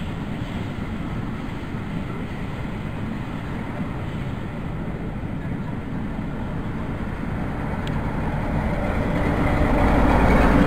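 Railway coaches rolling past close by with a steady rumble of wheels on rail; near the end a diesel locomotive on the rear of the train draws level, and its engine makes the sound grow louder and deeper.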